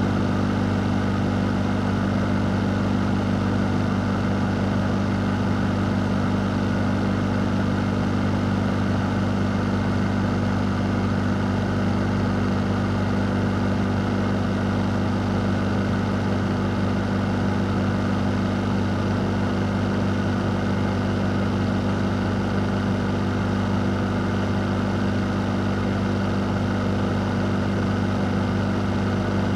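Electric fan running steadily: an even airy whoosh over a low, constant motor hum, unchanging throughout.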